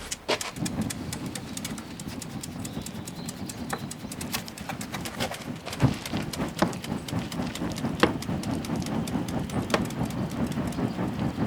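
Wood bonfire burning: a steady low rush of flames under dense crackling, with louder sharp pops about six, eight and ten seconds in.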